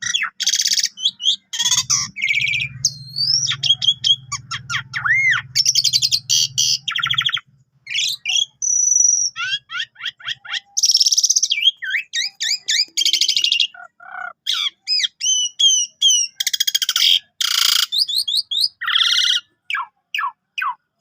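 Asian pied starling (jalak suren) singing a long, varied song: rapid rising and falling whistles mixed with dense buzzy rattles and chattering phrases, its full repertoire of imitated notes.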